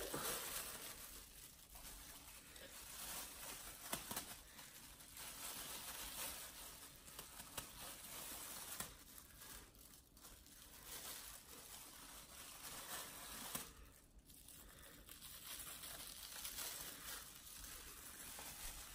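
A plastic bag crinkling and rustling faintly, on and off, as it is worked over a head of hair.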